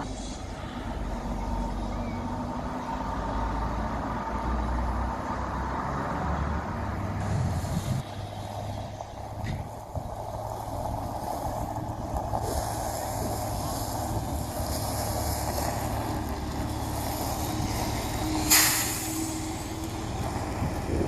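A heavy vehicle's diesel engine running steadily, most likely a heritage bus. About eighteen seconds in comes one short, sharp burst of air hiss, like an air brake releasing.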